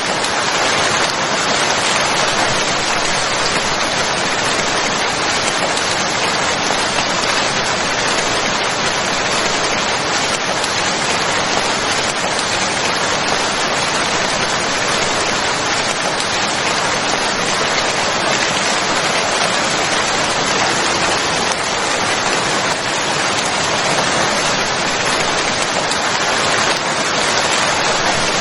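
Steady rain falling, an even hiss of dense raindrops.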